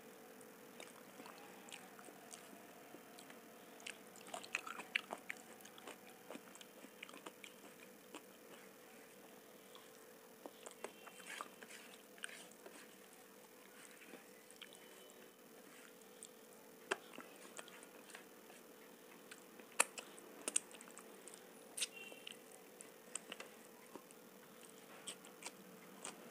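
Close-miked chewing and small wet mouth clicks of someone eating soft masala khichdi by hand, the clicks scattered and irregular over a faint steady hum.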